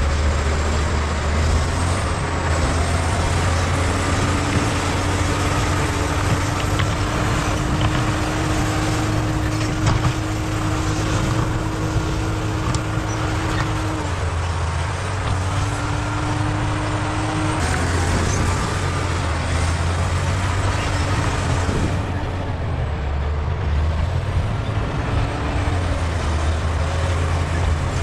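Bulldozer's diesel engine running steadily under load, with a steady whine that comes in about four seconds in and stops a little past halfway.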